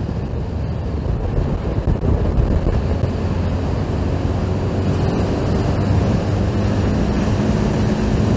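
Honda GTR150 single-cylinder engine held at high revs at speed, a steady engine hum under heavy wind rush on the microphone. The new engine is being run hard toward top speed while still in its break-in period.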